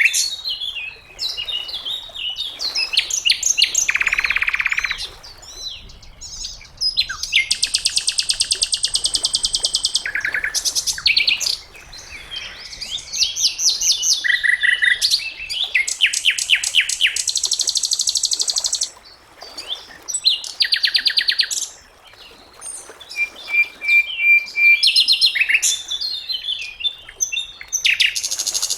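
Sikatan londo songbird singing a varied song of high whistles, very fast trills and buzzy rattles, in phrases a second or two long separated by short pauses.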